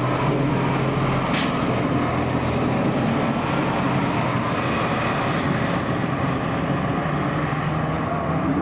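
A fire engine's diesel runs steadily, with a brief air-brake hiss about a second and a half in.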